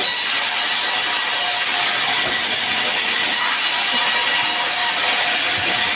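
Sawmill saw cutting wood, a steady even noise without a break.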